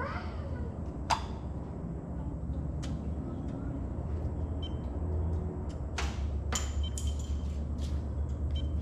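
Scattered sharp clicks and a few short, faint high beeps while a fuel-injection touchscreen is set up, over a steady low hum. The loudest clicks come about a second in and around six seconds in.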